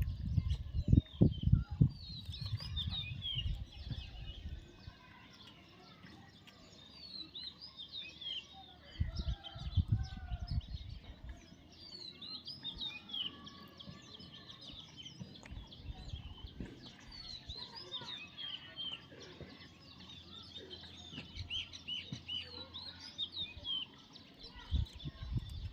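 Parrots chirping in quick, high, short calls throughout. Loud low thumps and rustles of handling come near the start, about ten seconds in, and again near the end.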